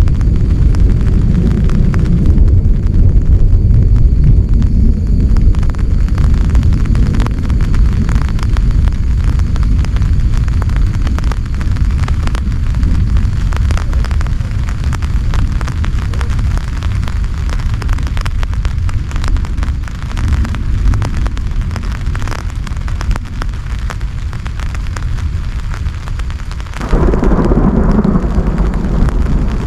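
Heavy rain pelting a tent: a dense patter of drops over a constant low rumble. The sound shifts abruptly near the end.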